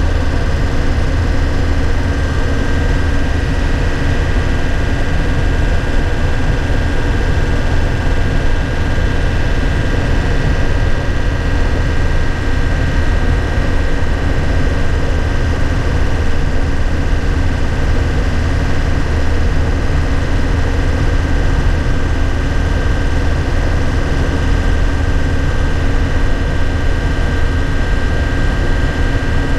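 Inside the cab of a 2001 Nissan Cabstar light truck under way at steady speed: its diesel engine runs evenly with a deep drone and a faint steady high whine, over road and tyre noise.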